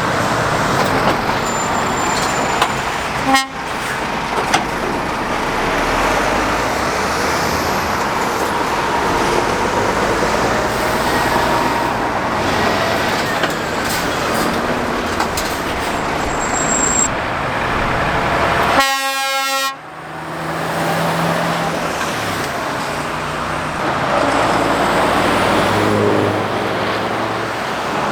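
Steady road-traffic noise as lorries and cars pass on a main road. About two-thirds of the way through, a truck horn sounds one toot lasting about a second, and a much shorter blip comes a few seconds in.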